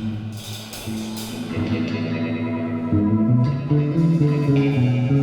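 Live band music led by guitar, with a bass line stepping through changing notes.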